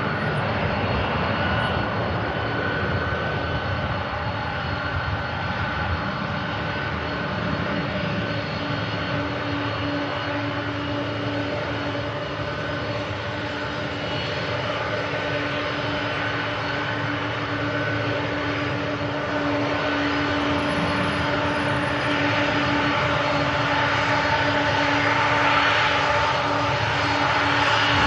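Jet airliner engines running: a steady rumble with a sustained whine, growing louder toward the end.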